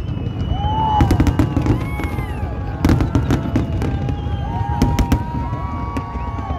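Aerial fireworks shells bursting in a large display: a continuous rumble of explosions, with clusters of sharper bangs about a second in, near three seconds and around five seconds.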